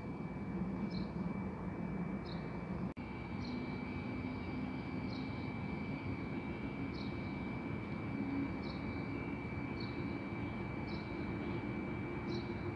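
Distant jet airliner engines running with a steady drone and a thin high whine. A small bird chirps repeatedly, about every second or two. The sound drops out briefly about three seconds in.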